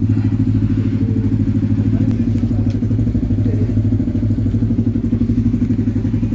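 Yamaha R-series sport motorcycle engine idling steadily, a fast even pulse that holds the same pitch throughout with no revving.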